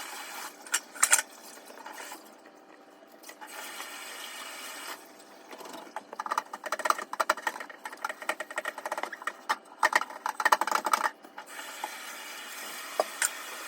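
Lemons being cut and squeezed by hand: a few knocks near the start, then stretches of wet crackling as the juice is pressed out.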